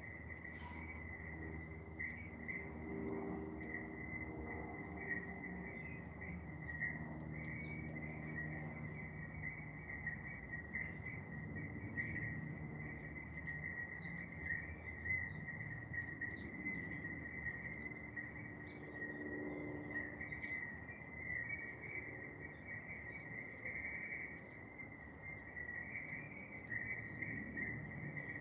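Insects trilling in one continuous, unbroken high-pitched drone, with a few short, faint bird chirps scattered over it and a low hum that comes and goes underneath.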